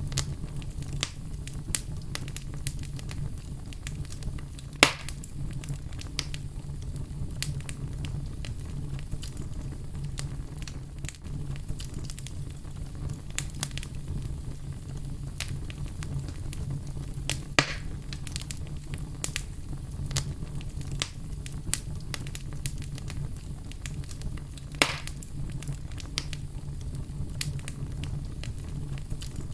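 Fire crackling: a steady low rumble under a dense run of small pops, with three louder snaps spread through it.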